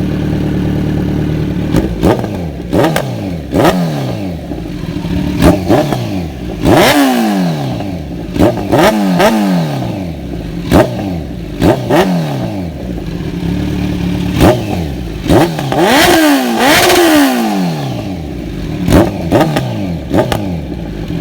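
Kawasaki Z900's inline-four engine breathing through Arrow racing headers and an SC Project S1 slip-on exhaust with its baffle in, being revved at a standstill once warmed up. It idles steadily, then takes over a dozen quick throttle blips, each falling back in pitch as the revs drop, including a couple of longer revs, and settles back to idle near the end.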